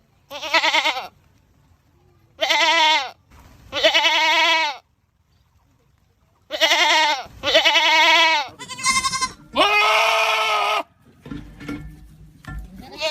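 Goat screaming: about seven loud, wavering bleats in quick succession, each lasting up to about a second. Fainter, rougher sounds follow near the end.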